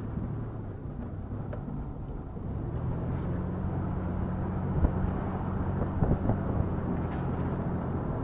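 A vehicle engine running with a low, steady hum that grows louder about three seconds in, with a couple of short knocks near the middle.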